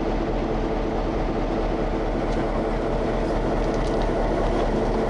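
EMD GP9 diesel-electric locomotive idling close by, a steady, unbroken engine drone.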